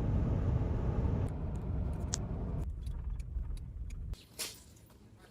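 A car driving, with a steady low road rumble that thins and fades out about four seconds in. Light clicks and rattles sound over it.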